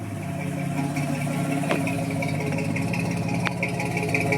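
1964 GMC truck's engine idling steadily through a new true-dual exhaust with Flowmaster 40 mufflers.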